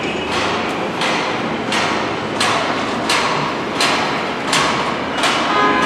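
Construction-site hammering: heavy strikes at an even pace, about one every 0.7 seconds, over a constant background rumble.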